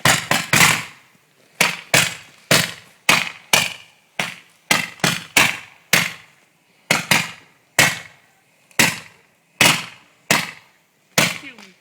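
Fireworks going off: a long, irregular string of sharp bangs, one to three a second, each with a short echoing tail.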